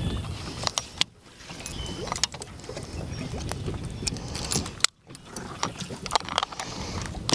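Wind rumbling on the microphone, with scattered light clicks and knocks from gear being handled in a small boat; the sound cuts out briefly twice.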